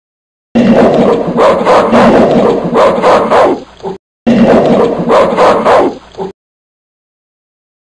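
A dog barking in a quick run of barks, which starts about half a second in, breaks off briefly around four seconds, resumes, and then cuts off abruptly.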